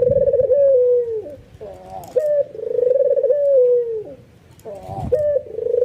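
White (albino) Barbary dove, the Indonesian puter, giving its bowing coo. A phrase of short rising notes leads into a long, wavering coo that falls away at the end, repeating about every two and a half seconds.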